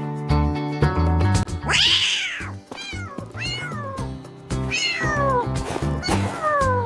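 A cat meowing again and again over background music, each meow falling in pitch. A brief rushing noise comes about two seconds in, before the meows begin.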